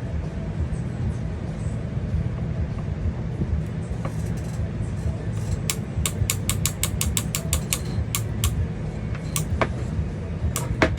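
Valken Proton paintball marker's solenoid clicking as it is dry-fired without air to test the electronics: a quick even run of about a dozen clicks starting about halfway in, then two single clicks near the end. A fan hums steadily underneath.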